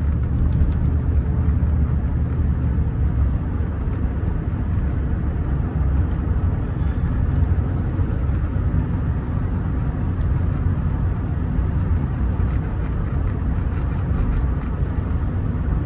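Rolls-Royce Silver Spirit III on the move, heard from inside the cabin: a steady low drone of its V8 engine and road noise.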